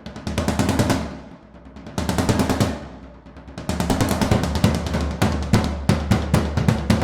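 Royal Enfield Continental GT 650 parallel-twin through aftermarket Emgo cafe mufflers, popping and crackling in rapid strings of sharp cracks over the engine's low running note. The pops come in three bursts, the last and longest starting about three and a half seconds in.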